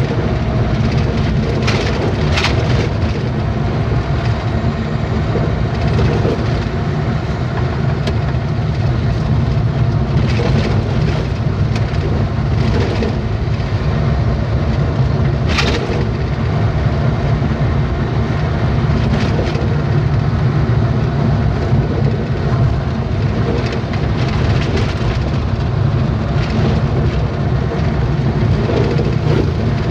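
Truck driving along a road: a steady low drone of engine and tyres, broken by a few sharp knocks or rattles, the clearest about halfway through.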